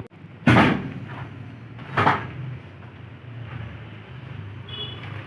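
Steel being loaded into a truck's cargo box: two loud bangs about a second and a half apart, over a low steady hum.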